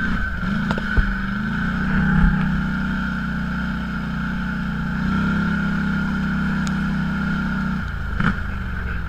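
Off-road vehicle engine running under steady throttle. Its note rises about a second in, holds, then drops off about a second before the end. A few sharp knocks come from the ride near the start and again near the end.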